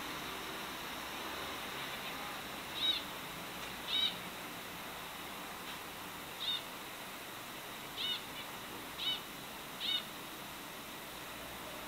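A pet bird giving six short, clear chirps, spaced about one to two seconds apart, over a steady background hiss.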